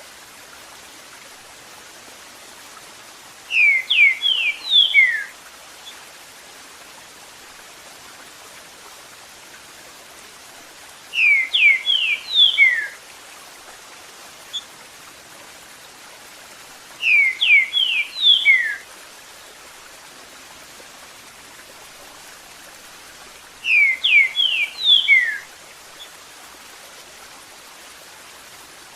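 Green-winged saltator (trinca-ferro) singing its 'Eu sou terrível' phrase four times, a quick run of whistled notes about every six or seven seconds, over a steady hiss of running water.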